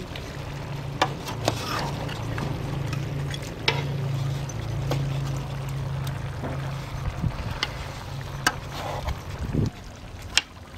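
Utensil stirring and turning a pot of braised pork with bamboo shoots in its liquid, with several sharp knocks of the utensil against the pot over a steady low hum.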